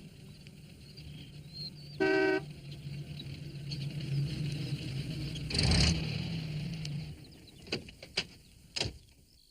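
Van engine running steadily, with one short horn toot about two seconds in and a louder whooshing surge a little past halfway. The engine stops and three sharp clicks follow near the end.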